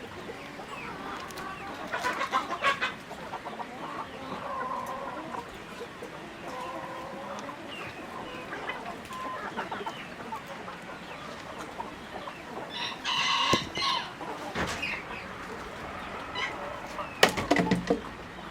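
Chickens clucking, with a few louder calls in the second half.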